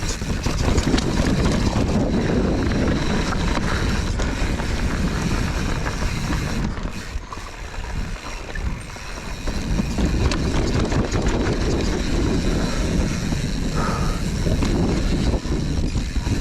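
Mountain bike riding fast down a dirt trail: wind on the microphone over the rumble of the tyres and bike, easing off for a couple of seconds in the middle.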